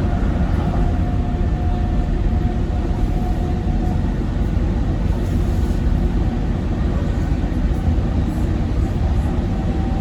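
Docklands Light Railway train running along the track, a steady rumble heard from on board, with a faint steady tone that fades out about four seconds in.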